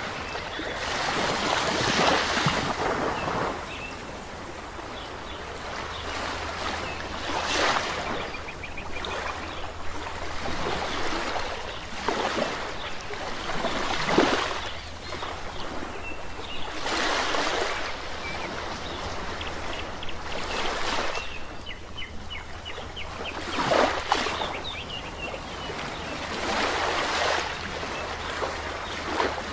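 Sea waves breaking and washing up a beach, one swell every three to four seconds, with faint short bird chirps now and then between them.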